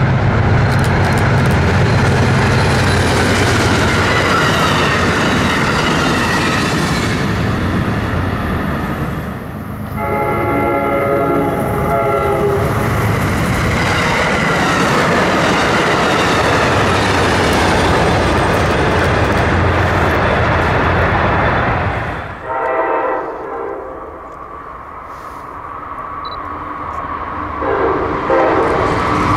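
Amtrak passenger trains passing with a steady rumble of wheels on rail. The horn sounds in a blast of about two seconds, about ten seconds in. Later the rumble drops away and the horn gives shorter blasts near the end as another train approaches.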